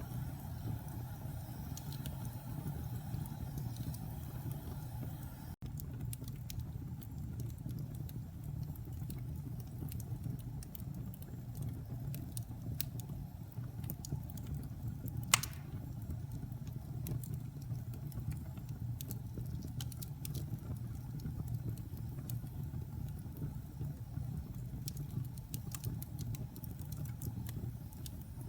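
Wood fire burning in a fireplace: a steady low rumble with scattered small crackles, and one loud sharp pop about fifteen seconds in.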